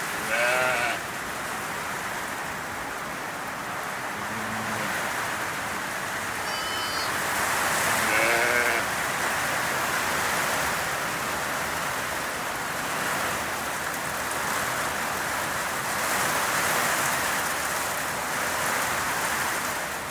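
Heavy rain pouring down steadily under a shed roof, with a Zwartbles lamb bleating twice, about half a second in and again about eight seconds in, and a short low sheep call between them.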